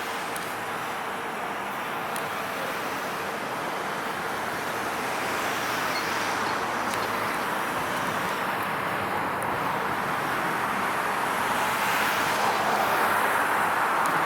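Steady road traffic noise of passing vehicles, tyres and engines on the street, slowly growing louder over the second half.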